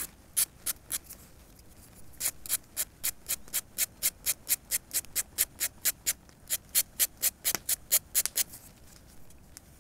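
Hand file rasping the sawn-off metal edge of a telescopic antenna tube, in short rhythmic strokes at about three to four a second, with a brief pause about a second in and the strokes stopping near the end. The edges are being rounded off so the tube can be blown through safely.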